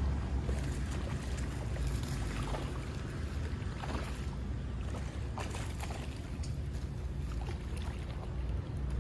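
Wind buffeting the microphone as a steady low rumble, with a few brief clicks and rustles over it.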